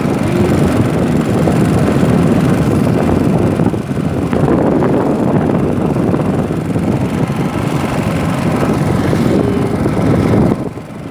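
Strong wind buffeting the microphone, a loud, steady low rumble that dips briefly near the end.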